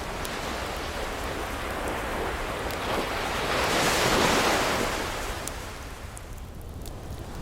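An ocean wave swelling and breaking into a rushing wash, loudest about four seconds in, then easing off, over a steady surf. A few faint fireplace crackles tick through it.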